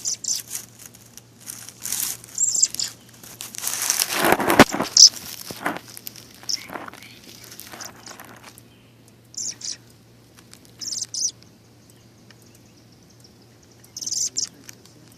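Short, high bird chirps repeated every few seconds, with a louder noisy burst lasting about a second around four seconds in.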